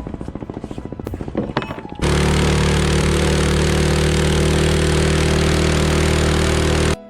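Small boat engine running with a quick, even chugging. About two seconds in it turns abruptly much louder and steady, with a strong hiss over it, and it cuts off sharply just before the end.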